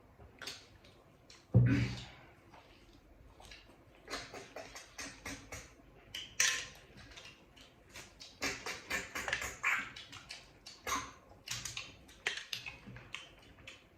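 Close-up eating noises: irregular wet chewing and smacking clicks, with one low thump about a second and a half in.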